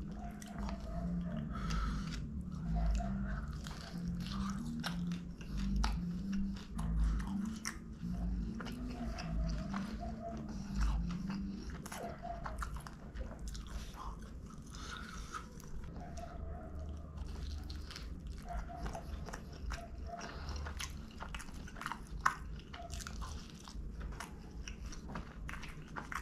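Close-miked eating sounds of a person biting into and chewing a crisp, toasted Pizza Hut Melt: repeated crunching of the crust mixed with wet chewing.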